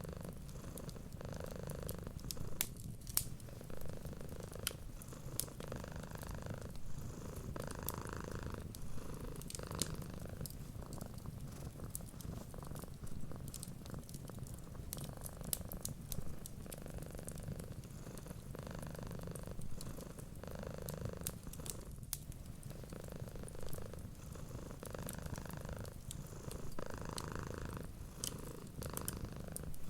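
Domestic cat purring steadily, the purr swelling and fading in a slow cycle about every two seconds, with scattered sharp pops of a crackling wood fire.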